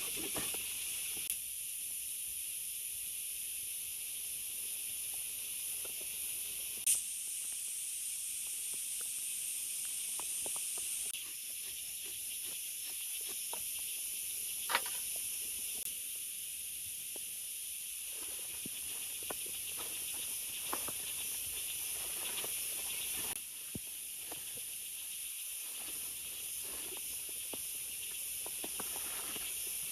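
Steady hiss of heavy rain, with scattered faint ticks and taps and two sharper clicks, about seven and fifteen seconds in.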